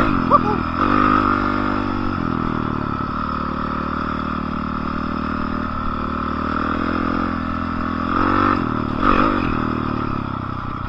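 Dirt bike engine running steadily at low revs, with a brief rise in revs about eight seconds in.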